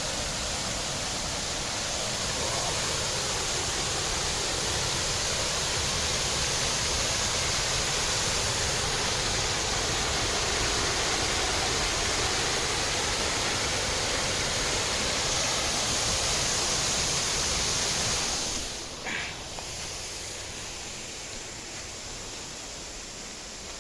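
Rushing water, a steady loud hiss like a waterfall or fast stream, that drops noticeably quieter about three-quarters of the way through, with a brief high sound just after the drop.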